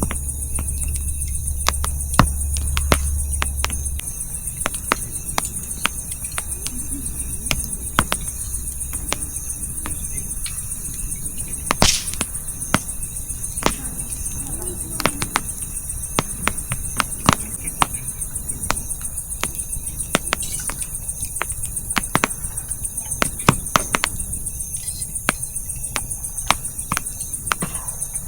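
Wood campfire crackling, with sharp pops and snaps scattered irregularly and one louder pop about twelve seconds in. Crickets chirp steadily in the background, and a low hum stops about four seconds in.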